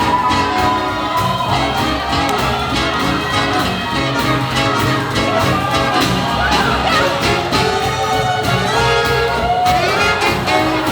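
Live swing jazz band playing up-tempo for Lindy Hop dancing: horns hold and bend notes over a steady beat.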